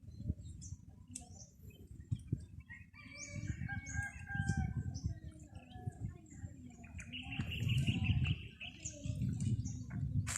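A rooster crowing, with small birds chirping and whistling around it, over a steady low rumble.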